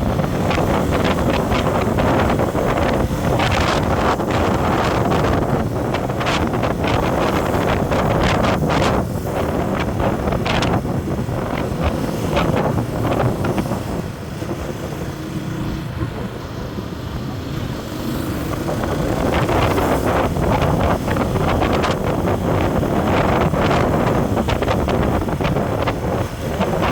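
Wind buffeting the microphone over the steady rumble of a moving road vehicle, with frequent crackling gusts; it eases for a few seconds about halfway through.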